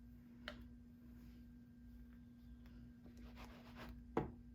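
Quiet handling of paper and stamping tools: a small click about half a second in, a faint rustle of paper, and two sharper clicks near the end, over a steady low hum.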